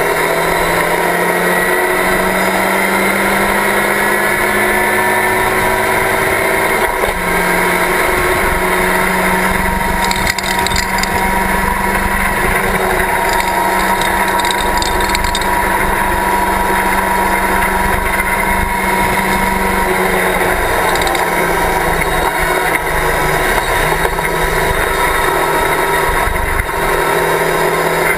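Locost race car's engine heard from the open cockpit under hard racing, its note running steadily loud and climbing and falling with throttle and gear changes.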